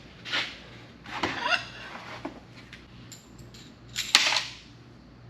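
Metal parts and tools knocking and clattering as hardware is handled during assembly: a few sharp knocks, one with a brief scraping rattle, and the loudest clank near the end.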